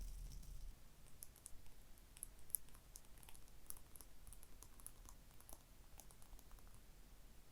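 Fingernails tapping lightly and irregularly on a hard object: a faint, quick scatter of small sharp clicks.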